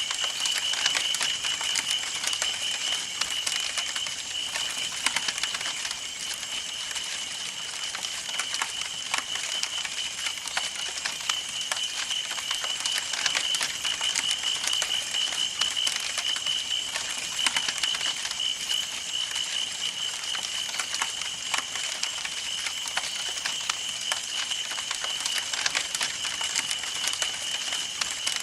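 Campfire burning: wood crackling and popping in a dense, irregular stream of small snaps, over a steady high-pitched pulsing trill.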